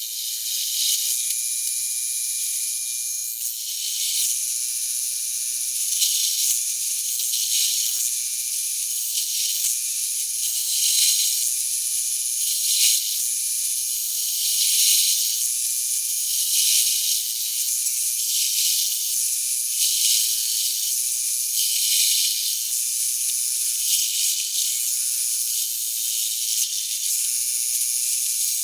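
Power drill working sheet-steel body panels, running continuously with a high-pitched whine that swells in level every second or two.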